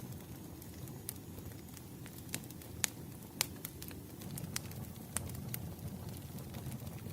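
Wood fire burning: a steady low rumble with irregular sharp crackles and pops, the loudest pops about three seconds in and again half a second later.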